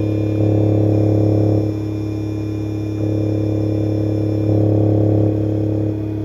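Subwoofer in free air, driven by a SounDigital 3000.1 Evo 4.0 car amplifier under test after a power-supply rebuild, playing a steady low bass tone with overtones. The tone steps louder twice for about a second and drops back.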